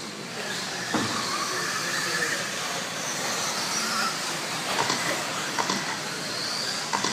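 Radio-controlled stadium trucks racing: a whine from their motors rises and falls as they pass. Several sharp knocks come through it, near the start and a few times near the end.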